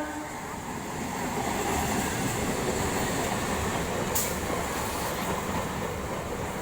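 Local passenger train running on the track: a steady rumble and rattle of wheels on rail, with one short sharp click about four seconds in.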